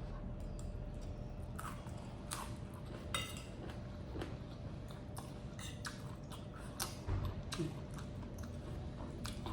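A person chewing a mouthful of stir-fried seafood and rice, with scattered short mouth smacks and clicks.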